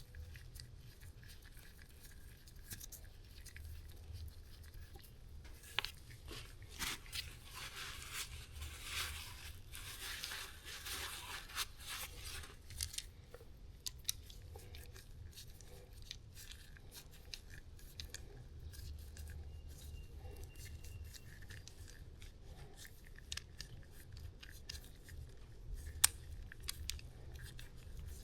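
Faint hand-work noises as an old hydraulic hose is worked loose from its fittings: scattered clicks and clinks of tools and metal, with stretches of scraping and rubbing, over a faint low hum.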